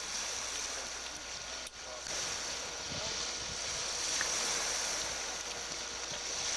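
Steady outdoor wind and sea noise on a camcorder microphone, an even hiss with a short break just under two seconds in.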